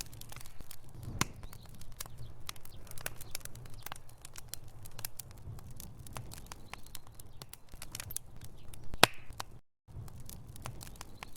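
Log fire burning in a fireplace: constant crackling, with many small pops over a low rumble of flame and one louder pop about nine seconds in. The sound cuts out completely for a moment shortly after that pop.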